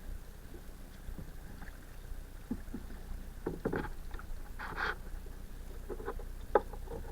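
Kayak paddling on a river: the paddle dips and splashes in the water and knocks against the boat, with one sharp knock near the end, over a steady low rumble.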